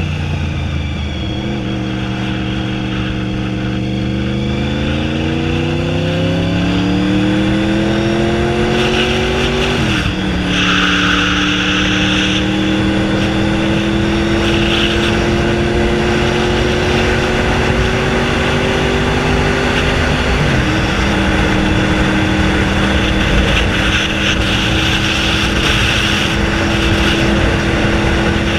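Honda VFR 750F V4 engine with no muffler, accelerating on the road. The revs climb steadily and drop at an upshift about ten seconds in, then rise slowly again until a second upshift at about twenty seconds, after which the engine holds a steady cruise.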